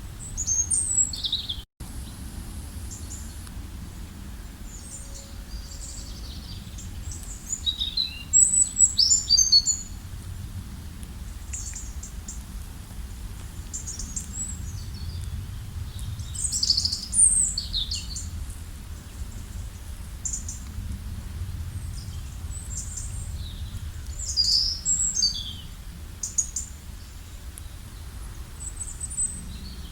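Songbirds chirping and twittering in short high bursts scattered throughout, over a steady low rumble. The sound cuts out for an instant a little under two seconds in.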